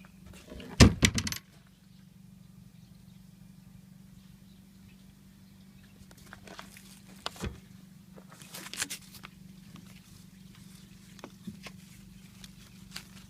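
A short burst of clattering knocks about a second in, then scattered lighter knocks and clicks, as gear is handled and moved about in the boat.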